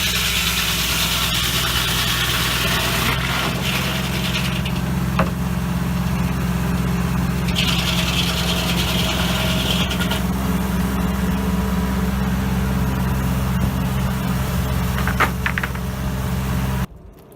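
Engine running steadily to power a Foley Belsaw M-14 circle sawmill. The blade cuts through a log in two stretches of higher-pitched cutting noise, with the feed hesitating between them. The sound cuts off abruptly near the end.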